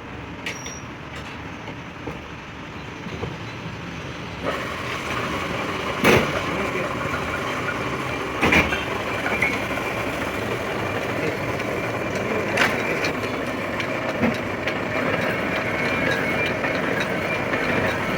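A metal lathe turns a heavy steel truck axle while a hand-held cutting tool scrapes it, giving a steady grinding noise. The noise gets louder and harsher about four and a half seconds in, and three sharp metallic knocks come in the middle.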